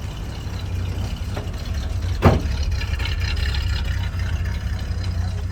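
1988 Chevy C1500 pickup's engine idling steadily, with the hood slammed shut once about two seconds in.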